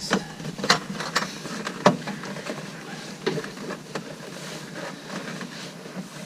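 Irregular knocks, taps and rustling as a foam mattress pad is pushed and squared into place on the floor of a small airplane's cabin, with about half a dozen sharper knocks in the first four seconds.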